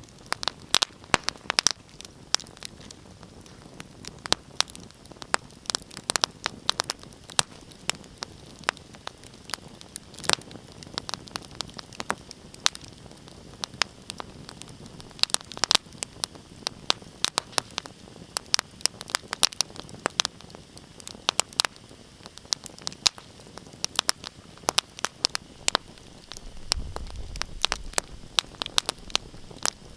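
Fireplace fire crackling: frequent sharp pops and snaps at irregular intervals over a soft hiss, with a brief low rumble near the end.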